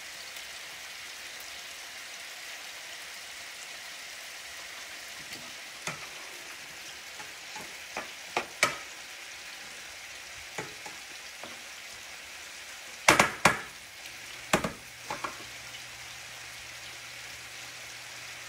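Scallops sizzling as they sear in a hot frying pan, a steady hiss as the crust caramelizes. Sharp clicks and knocks break in here and there, the loudest a quick cluster about two-thirds through.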